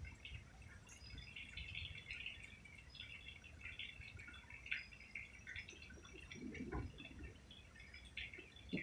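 Night insects chirping: a dense, faint scatter of short high chirps.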